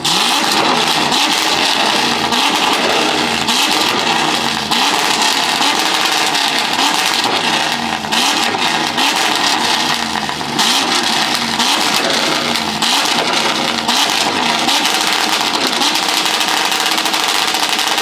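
A car engine revving over and over, its pitch rising and falling about once a second, over a loud, steady rushing noise.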